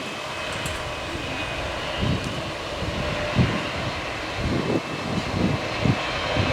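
Aircraft engine noise at an airport: a steady hiss-like rush with a faint steady whine, over irregular low rumbling puffs.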